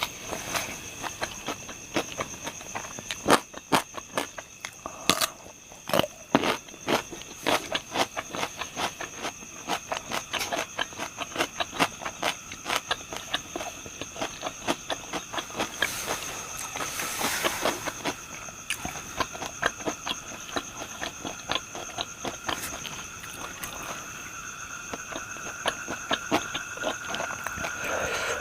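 Close-up chewing of deep-fried pork intestine and liver: many irregular crunches and mouth clicks, thickest in the first half. Insects keep up a steady high drone behind it.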